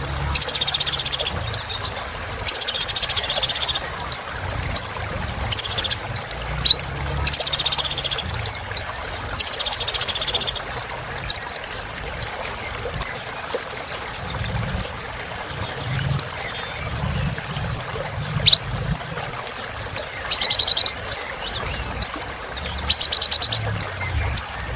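Kolibri ninja (a sunbird) in full song: a rapid run of sharp, high, sweeping chirps broken by buzzy, high trills lasting about a second each, repeated without pause.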